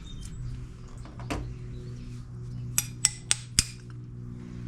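A handful of sharp metal clinks and taps from small tools and parts of a push-mower carburetor being handled on a workbench, most of them in quick succession in the second half, over a steady low hum.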